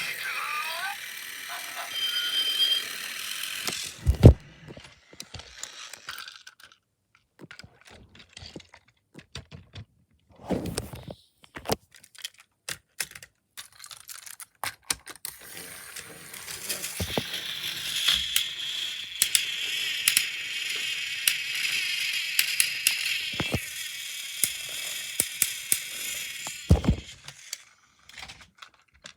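Battery-powered toy train motor whirring steadily for about ten seconds in the second half, among scattered plastic clicks and knocks from the toys being handled. There is a sharp thump about four seconds in and another near the end.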